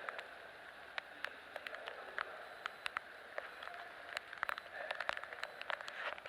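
Rain falling in a typhoon: a steady hiss with scattered sharp ticks of drops landing close by, at irregular times.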